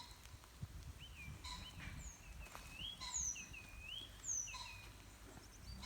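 Wild birds singing: a string of short whistled notes that rise and fall, mixed with high down-slurred whistles, over a low rumble.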